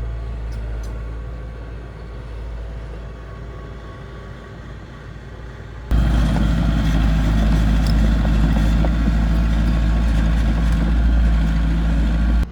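Heavy diesel engine running steadily with a deep rumble, jumping abruptly much louder and closer about halfway through.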